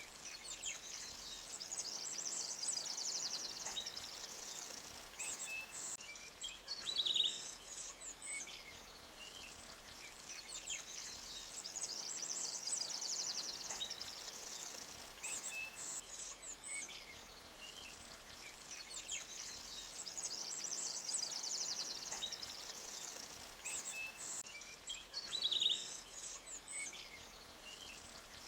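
Forest ambience: small birds chirping and trilling over a faint steady rush of flowing creek water, with two short, sharper calls standing out.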